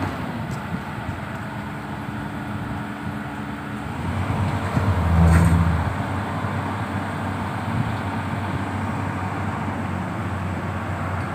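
Komatsu PC200-7 excavator's six-cylinder diesel engine running steadily, growing louder for about two seconds midway before settling back.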